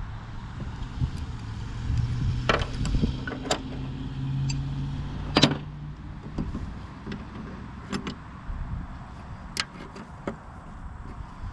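Scattered sharp metallic clinks and knocks of a wrench on a finish mower's bolts and steel deck, about half a dozen in all. Behind them runs a low engine drone that swells and shifts in pitch for a few seconds after a couple of seconds.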